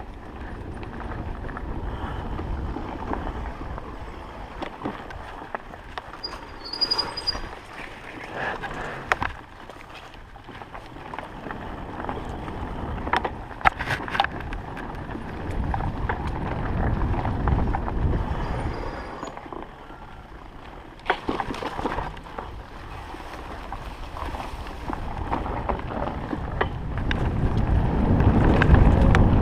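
Wind buffeting the microphone and tyre noise of an electric enduro bike riding a forest dirt road, with scattered knocks and rattles from bumps. The rumble swells and fades and grows loudest near the end.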